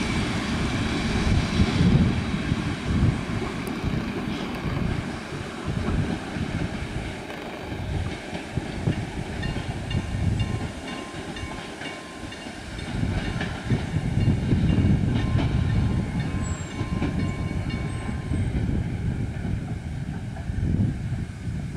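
Passenger carriages of a departing train rolling away over station points and curves, the wheels clacking on rail joints under a low rumble, with a faint thin wheel squeal in the middle stretch.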